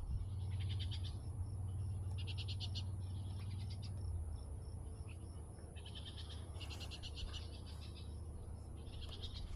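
Songbirds chattering: short, fast rattling trills repeating every second or two. A low rumble sits under the first few seconds.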